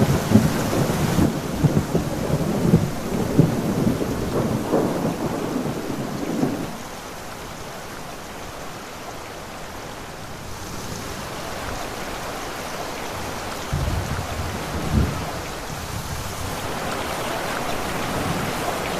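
Storm noise with rain and low rumbling surges during the first several seconds. About a third of the way in, it drops suddenly to a quieter, steady rain hiss, with another brief low rumble later on.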